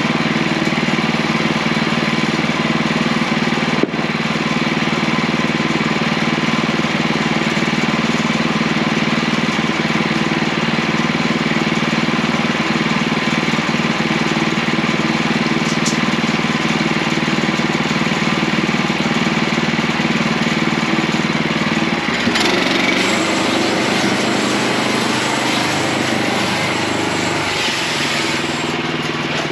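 Portable sawmill's gas engine running steadily. About 22 seconds in, the engine note changes and a hissing noise joins in for about six seconds before easing off near the end.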